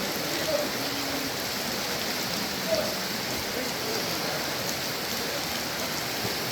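Steady rush of falling and flowing water from a waterfall and its rocky stream.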